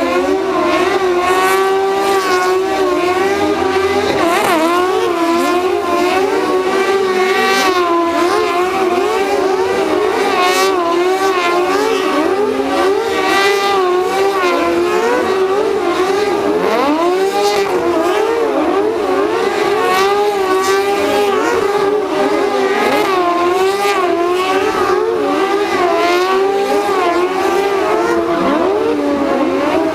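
Several cross car engines running at high revs, their pitch rising and falling again and again as they accelerate and back off, the notes of more than one car overlapping.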